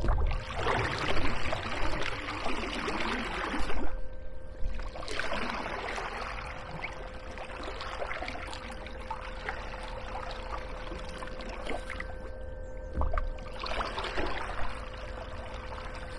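Water splashing and swishing around an inflatable kayak in three bursts, over a steady hum from the Hiqmar EP18Li electric fin motor driving it.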